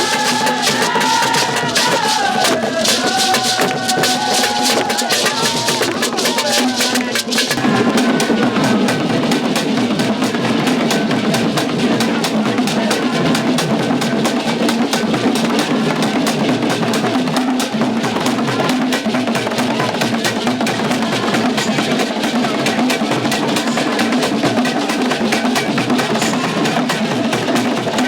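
Drum and percussion music with dense, rapid strokes. A wavering melody line sounds over the drums for the first seven seconds or so, then drops out and the drumming carries on alone.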